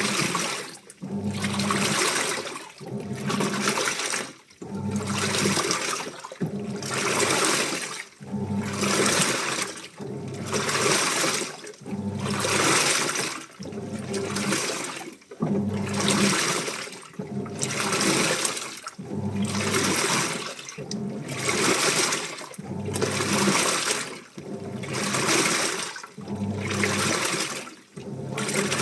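Washing machine in its wash cycle: water sloshing in regular surges about every one and a half seconds, each surge carrying the low hum of the motor.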